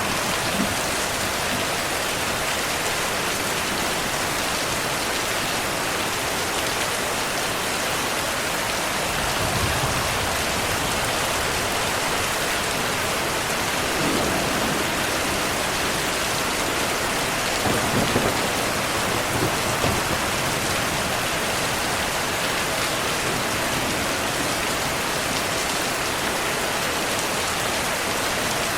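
Steady rain falling with a dense, even hiss, with low rumbles of distant thunder rolling in three times, about a third of the way in, near the middle, and loudest about two-thirds in.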